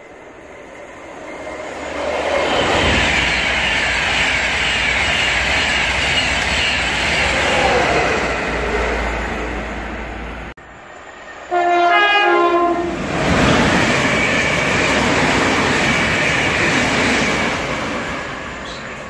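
Trains passing through a main-line station at speed, a loud rush of wheel and rail noise that swells and fades. After an abrupt break about halfway through, a train sounds a brief horn of quick alternating tones, and another loud pass follows.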